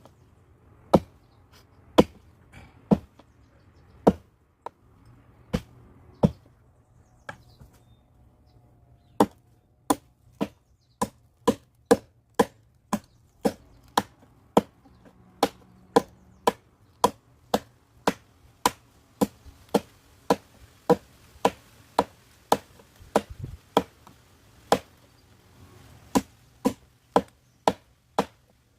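Firewood being chopped: a long run of sharp blade strikes into wood, about one a second at first, then after a short pause quicker, about two a second.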